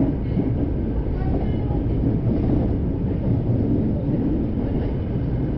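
Kyoto Municipal Subway Karasuma Line train running through a tunnel, heard from inside the car: a steady rumble of wheels on rail with a faint steady whine.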